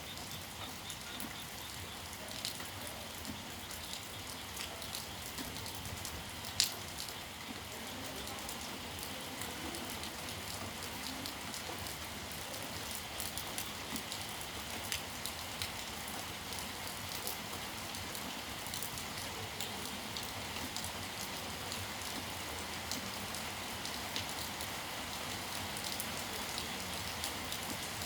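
Steady rain falling, with many individual drops ticking, and one sharper, louder tick about a quarter of the way in.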